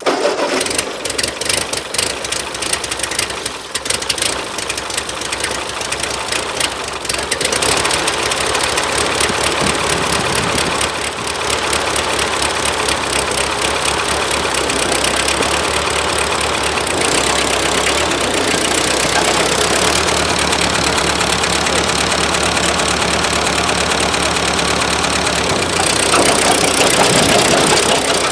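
Ford 8N tractor's four-cylinder flathead engine running cold while the tractor is clutched in and driven forward. It runs rough and uneven for the first few seconds, then steadier and louder, with a further rise near the end.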